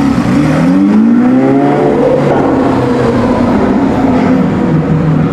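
Supercar engine accelerating hard, its pitch rising over the first two seconds, then running on at a steadier pitch.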